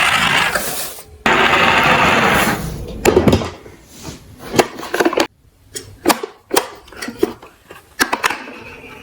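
Toy trucks rolling with a rushing sound, twice in the first few seconds, then a run of separate clicks and knocks as the pieces clatter together.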